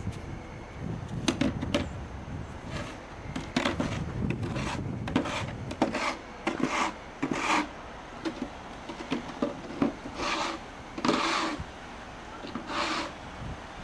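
A series of irregular scraping strokes, each about half a second long, over a low rumble.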